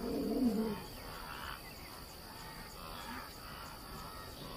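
A lion's low, arching call that fades out within the first second, followed by faint night ambience with insects chirping.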